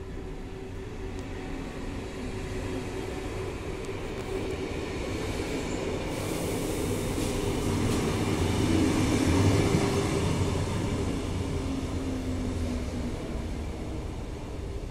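Blue double-deck TER electric train pulling into the station. Its rumble and steady humming tones swell to their loudest about nine seconds in as it passes, then ease off as it slows.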